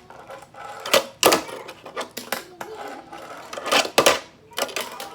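Sharp plastic clacks and taps of a Tech Deck fingerboard knocking on a hard surface: a pair about a second in, another pair near four seconds and one more just after, with light clatter between.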